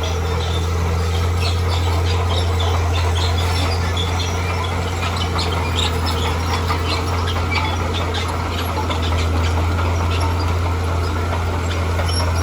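Diesel engine of heavy earthmoving equipment running steadily under load, a constant low drone, with many scattered sharp clicks and scrapes over it.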